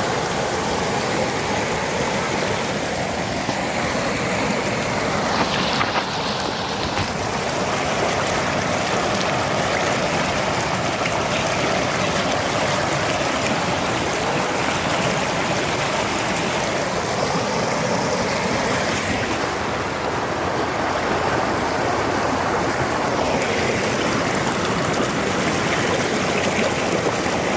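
River water rushing: a steady, dense flowing noise.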